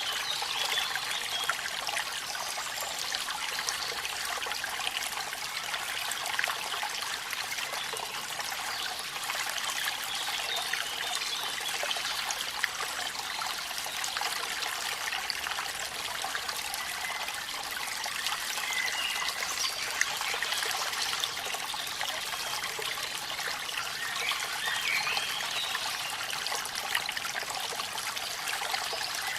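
Waterfall water splashing and trickling in a steady, unbroken hiss, with little deep rumble.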